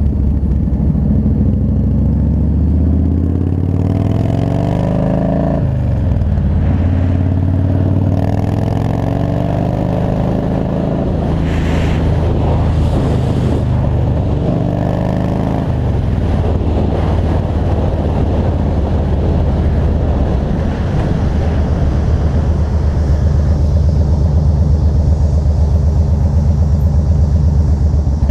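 Engine of a 2003 Yamaha Road Star, a big air-cooled V-twin cruiser motorcycle, under way at highway speed. It pulls up through the revs, shifts about five or six seconds in, pulls again, then settles into a steady cruise, a little louder near the end.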